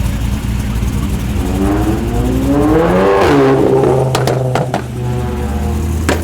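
A performance car's engine revving as the car accelerates away, pitch climbing for about a second and a half, then dropping sharply about three seconds in at a gear change. A low engine rumble sits underneath, and several sharp clicks come near the end.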